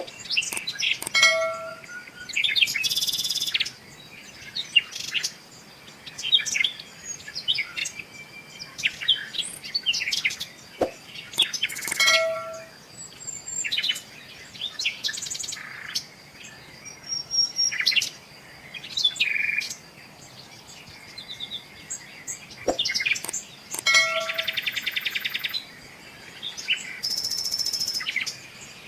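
Several birds singing and chirping, with short calls throughout and a few long, fast trills.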